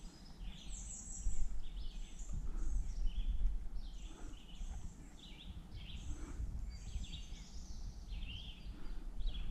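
Songbirds singing in the trees, a steady run of short high chirps and song phrases, several a second, over a low steady rumble.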